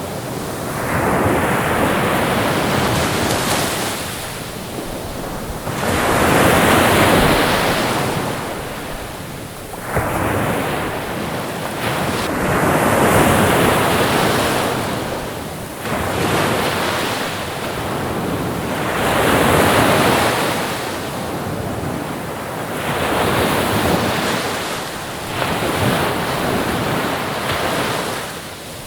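Ocean waves washing in, each surge swelling and falling back every three to five seconds, about seven in all.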